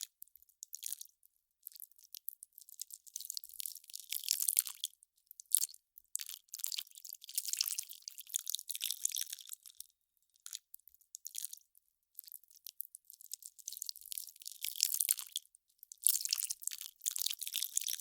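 Ice crackling and popping as it melts: clusters of fine, crisp high crackles a second or two long, broken by short quiet gaps.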